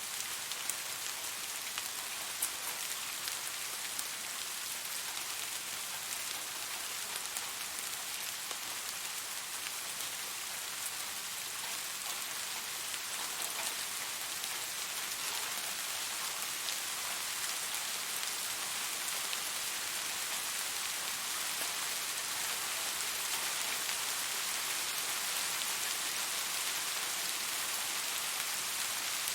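Steady rain: an even hiss with scattered sharp drop ticks, growing slightly heavier in the last third.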